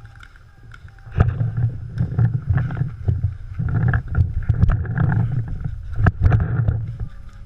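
Rumbling wind and handling noise buffeting a worn camera's microphone, with scattered sharp knocks; it starts about a second in and eases near the end.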